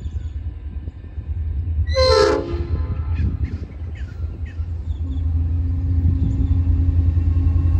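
Approaching diesel freight locomotives sound a short horn blast about two seconds in, over a low rumble. From about five seconds in, a steady engine hum comes in and the train grows louder as it nears.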